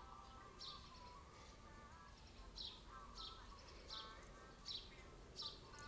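Faint bird chirps: short, high notes that drop in pitch, repeating about every second or less over a softer, lower warbling.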